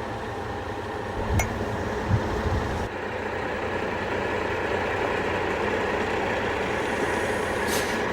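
Heavy tow truck engine running steadily at idle while the tow bar is worked into position, with a sharp metallic click and a few low thumps about a second or two in and another click near the end.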